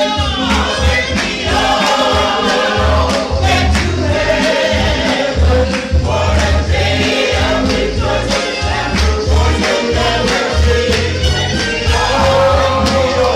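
Gospel choir singing over a band, with a regular bass beat under the voices.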